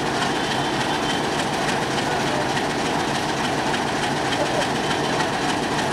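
Steady running noise of a train at a railway station.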